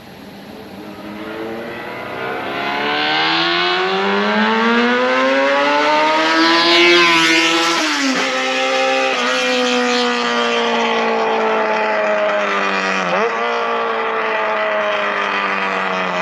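Kawasaki ZRX400 inline-four on a straight-pipe exhaust, growing louder as it accelerates with the engine note climbing. Near the middle the pitch drops sharply at gear changes, twice in quick succession and once more later.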